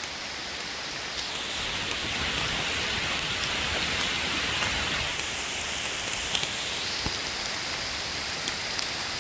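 Heavy lake-effect rain pouring down, a dense steady hiss with scattered individual drops ticking. It grows a little louder about two seconds in and eases slightly after about five seconds.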